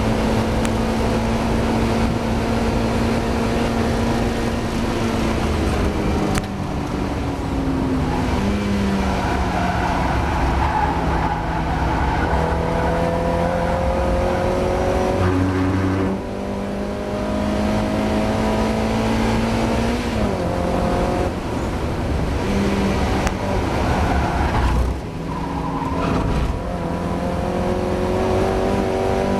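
Mazda MX-5 race car's four-cylinder engine under hard racing load, its pitch climbing steadily and dropping sharply several times at gear changes or lifts. The engine is running with the misfire the driver struggled with through the race.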